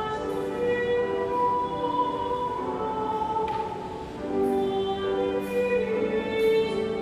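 A choir sings a hymn with instrumental accompaniment, in long held notes, with a short break between phrases about four seconds in.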